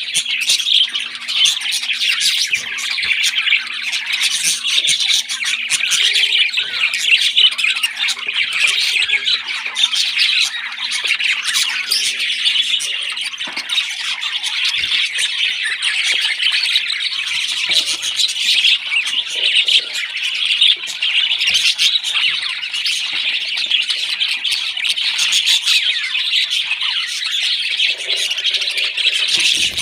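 Parrot chicks calling without pause while being fed: a continuous, fast, high-pitched squawking chatter.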